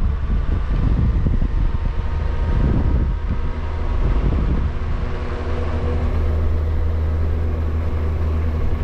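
Motorcycle engine running at road speed, with heavy wind rumble on the microphone. The rumble comes in gusts at first, and the engine note holds steady through the second half.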